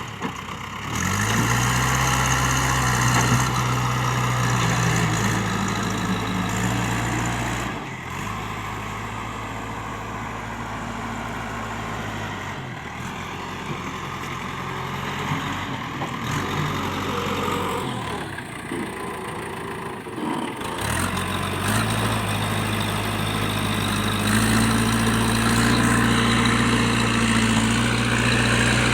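JCB 3DX backhoe loader's diesel engine running as it works, the engine note shifting with load. It eases off about a third of the way in, nearly drops away a little past halfway, then picks up again and runs higher toward the end.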